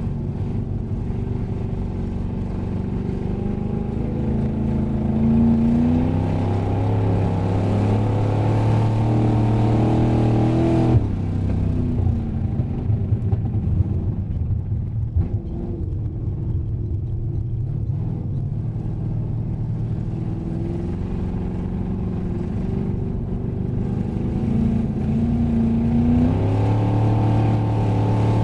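Race car engine heard from inside the cabin on an ice track, its revs climbing for several seconds and then dropping suddenly about eleven seconds in. A rougher stretch with a few knocks follows, and the engine climbs again near the end.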